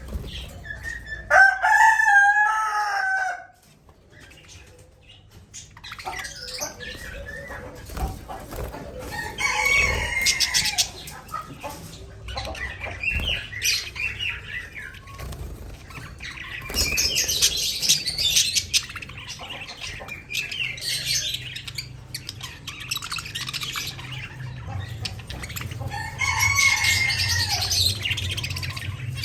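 Pet budgerigars chirping and chattering in bursts, with a loud wavering call near the start and another near the end.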